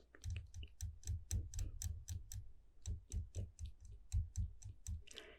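Close-miked ASMR mouth sounds: a rapid run of wet clicks and pops, about five a second, each with a bassy thump, and a short breathy puff near the end.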